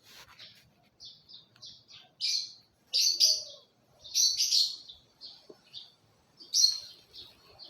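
Small pet parrots chirping: a string of short, high chirps, a few louder ones spread through, with softer twitters between.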